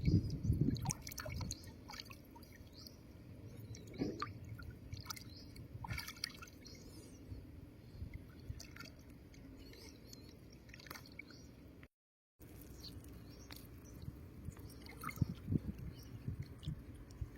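Small drips, splashes and squelches of water and wet mud, scattered and irregular, with a few heavier sloshing thumps at the start and near the end. Hands are working in shallow water while searching for snails and crabs. About halfway through the sound drops out completely for half a second.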